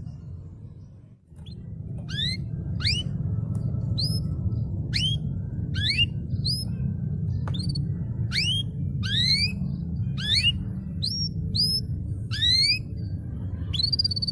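Domestic canary singing a series of separate rising, whistled notes, about one or two a second, ending in a longer held note, over a steady low hum.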